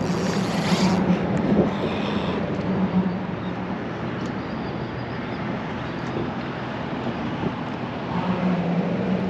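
Road traffic crossing the bridge overhead: a steady rushing hum that swells in the first few seconds and again near the end.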